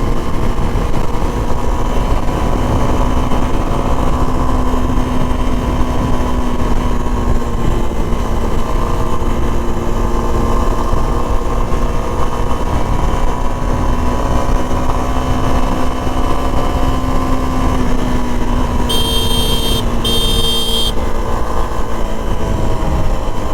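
Suzuki V-Strom SX 250's single-cylinder engine running at a steady cruise under road noise. Near the end the bike's horn sounds twice in short blasts; it is like a scooter horn.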